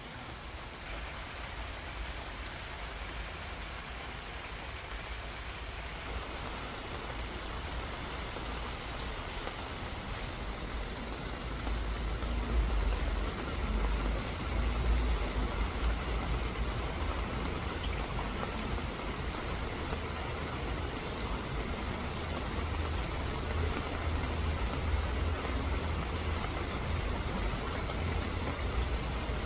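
Rain falling steadily, an even patter with no let-up. About twelve seconds in, a low rumble grows underneath and the sound swells a few times before settling again.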